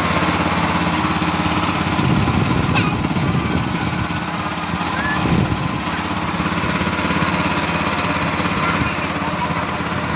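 Small motorboat engine running steadily at an even pitch.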